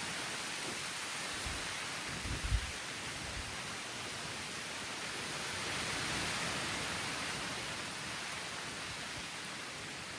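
Light rain falling steadily in a forest, an even hiss that swells slightly about six seconds in. A few short, dull low thumps come about two and a half seconds in.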